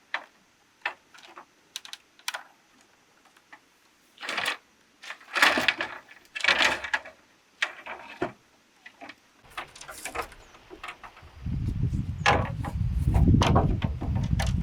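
Scattered sharp taps and knocks with a few longer rustling or scraping bursts, as of hand work on materials. About eleven seconds in, a steady low engine rumble starts and keeps running.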